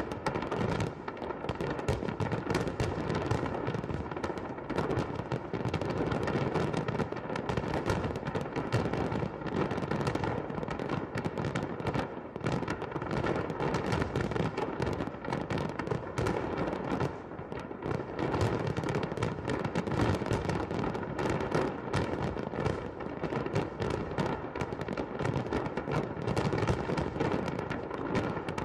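Fireworks salute: many shells bursting and crackling in a dense, unbroken barrage.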